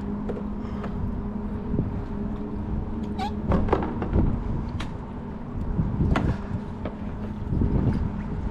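Knocks and clatter on a fishing kayak while a hooked fish is landed, with a short squeak about three seconds in, over steady wind and water noise.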